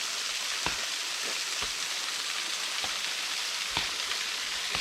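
Waterfall pouring down a rock face: a steady hiss of falling water, with a few faint knocks scattered through it.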